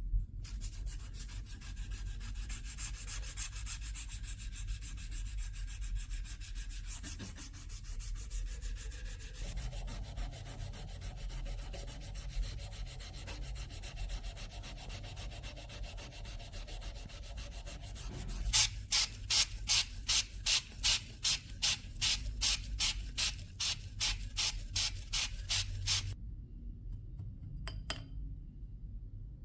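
Abrasive rubbed by hand along a rusted steel sword blade in rapid back-and-forth strokes. About two-thirds of the way in, it changes to louder, slower, distinct strokes about three a second, then stops.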